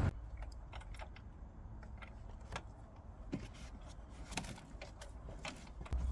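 Scattered light metallic clicks and taps as a nut is fitted by hand onto the battery hold-down clamp bolt, over a faint low rumble.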